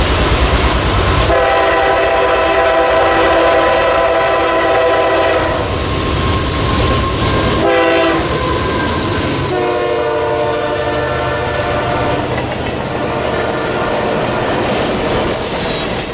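Locomotive horn sounding a chord: a long blast, a short one, then another long blast, over the rumble and clatter of the passing train. The sound cuts off suddenly at the end.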